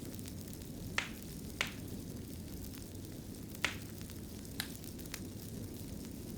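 Wood fire burning in a fireplace: a steady low rumble of flames with sharp crackles and pops every second or so, about five in all.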